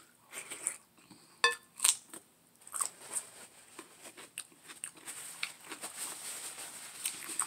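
Close-up eating sounds: sharp wet mouth clicks and chewing on a spoonful of sauce, then a paper napkin rubbed over the mouth, a soft hiss growing louder near the end.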